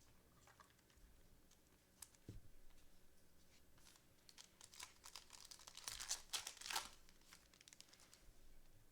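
Faint crinkling and tearing of a foil trading-card pack wrapper being ripped open, loudest a few seconds in, with light clicks of cards being handled.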